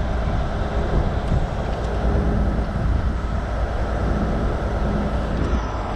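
Heavy tow truck's diesel engine running steadily, a low even rumble, as the truck pulls slowly on the wreck.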